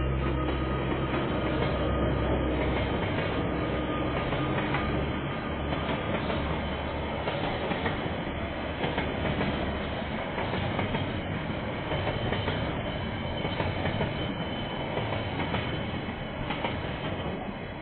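Freight train of container wagons rolling past: a steady rumble with wheels clicking over the rail joints, over the locomotive's engine hum that fades in the first couple of seconds. The rumble dies away toward the end, heard through a security camera's microphone.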